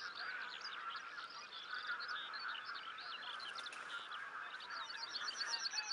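A large flock of geese calling: a continuous chorus of many overlapping honks from the massed birds, with sharper individual calls over it.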